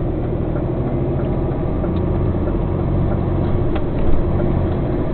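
Truck engine running steadily, heard from inside the cab as a low drone with road rumble, with a few faint clicks and rattles.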